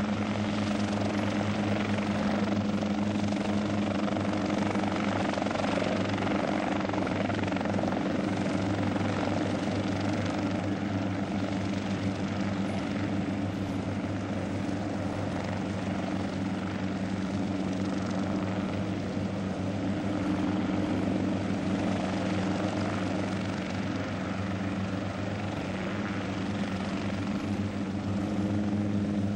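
Hughes 300 helicopter in flight, its piston engine and rotors running at a steady drone with a constant low hum.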